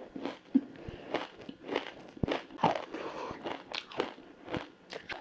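Close crunching bites into frozen matcha ice, a quick run of sharp crunches at about two a second.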